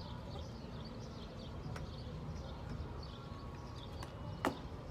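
Outdoor background sound: a steady low rumble with faint, repeated high chirps and a few sharp clicks, the loudest near the end.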